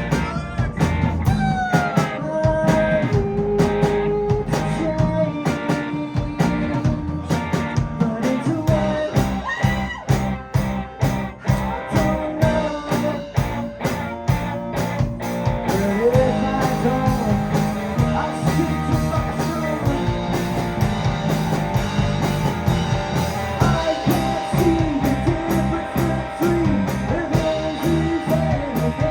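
Live rock band playing an instrumental passage: drums, bass and keyboards under a lead line with bending notes. The drumming grows denser in the second half.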